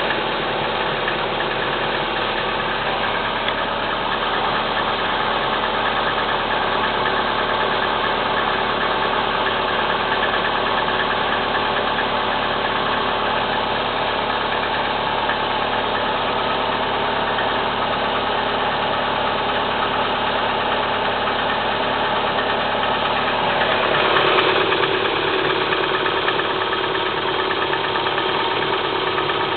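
Kia Spectra 1.6 four-cylinder petrol engine idling cold with a characteristic rattling knock, the engine knock that shows up on a cold engine. The level rises briefly about 24 seconds in.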